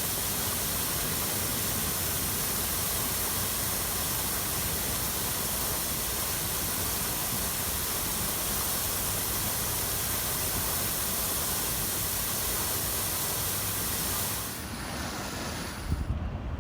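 Steady, even rush of flowing water. It changes abruptly near the end, giving way to low, gusty wind rumble on the microphone.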